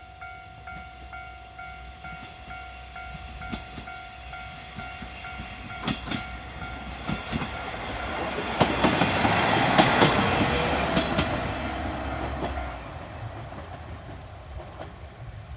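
Japanese level-crossing warning bell ringing in rapid, even strokes while a diesel train on the non-electrified Yodo Line passes over the crossing. The train builds to its loudest about ten seconds in, with wheels clacking over the rail joints, then fades. The bell stops a few seconds before the end.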